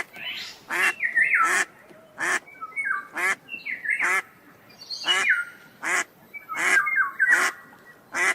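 Ducks quacking over and over, about one harsh quack a second, with higher gliding chirping calls between the quacks.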